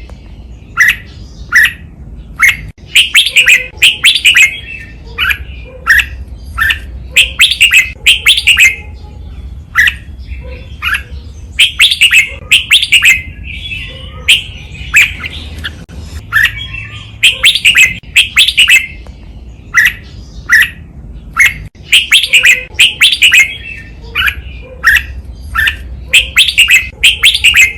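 Red-whiskered bulbul singing a model song for training caged bulbuls: short, sharp, loud notes repeated in quick clusters, phrase after phrase, with brief pauses between.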